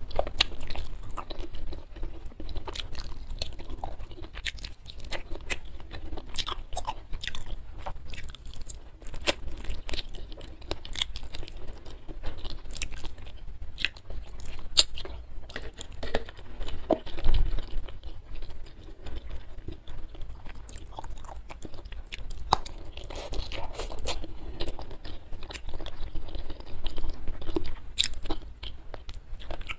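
Mouth sounds of eating chicken feet in Bali spice by hand: steady wet chewing and biting with many small, irregular crunchy clicks.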